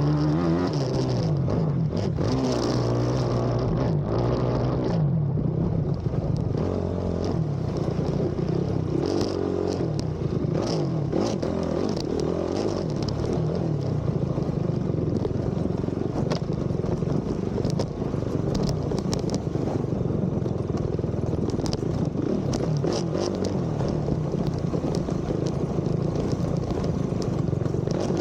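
Race ATV engine revving up and down continuously under load, with frequent clatter and knocks from the machine over rough ground.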